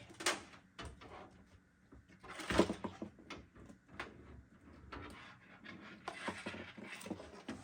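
Computer parts being handled while a liquid cooler is fitted in a PC case: scattered small clicks and knocks, with the loudest knock about two and a half seconds in.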